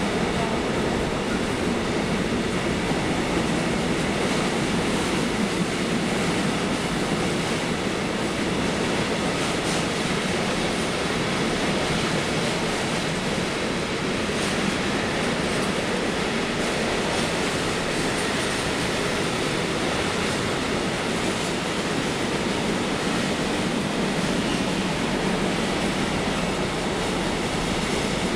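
A train rolling past steadily on the track, its wheels running over the rails without a break.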